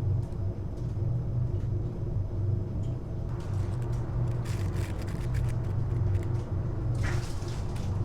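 Steady low mechanical hum with scattered light clicks and a brief hiss about seven seconds in.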